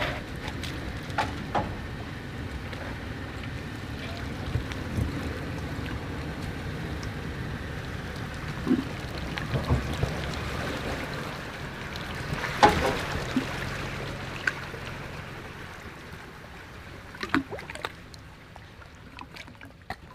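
Toyota 4Runner engine running at low speed on an off-road trail, with steady tyre and trail noise and scattered knocks. One sharp loud knock comes a little past the middle.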